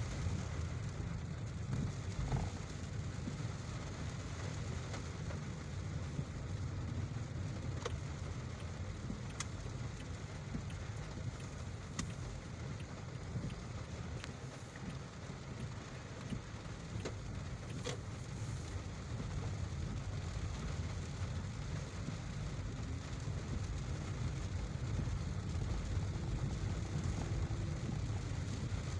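Car driving on a road in rain: a steady low rumble of tyres and engine, with a few faint ticks.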